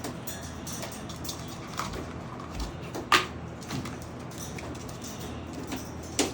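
Scattered light taps and clicks from a Goffin's cockatoo playing with its toys, with a sharper knock about three seconds in and another near the end.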